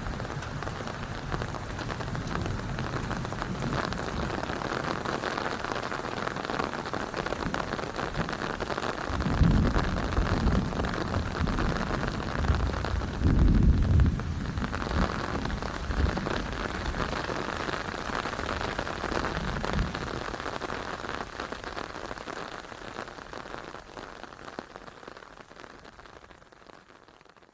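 Steady rain falling, with gusts of wind buffeting the microphone in low rumbles about nine and thirteen seconds in. The sound fades out gradually near the end.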